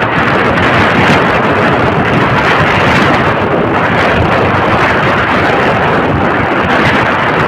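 Loud, steady wind noise rushing over the microphone of a moving motorcycle, with the ride's engine and road noise blended into it.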